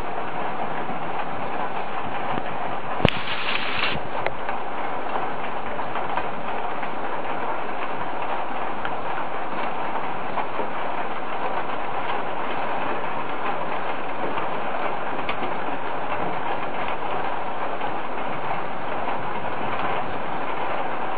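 Steady rain during a thunderstorm: a dense, even hiss full of fine crackle, with one sharp click about three seconds in.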